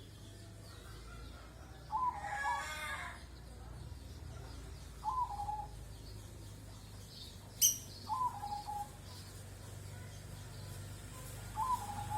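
A bird calling: the same short call, a quick upward flick then a brief held note, repeated four times about three seconds apart. A short rustle comes with the first call and a sharp click near the end, over a steady low hum.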